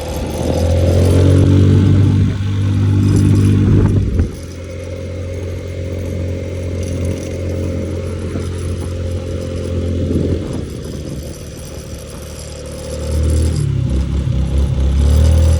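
Moped's small engine running on a ride, its pitch rising and falling with the throttle: strongest over the first few seconds, easing off abruptly about four seconds in, running steadier and quieter, then picking up again near the end.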